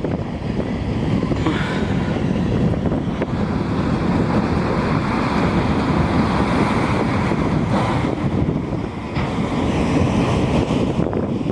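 Wind buffeting the camera microphone: a loud, steady rushing rumble.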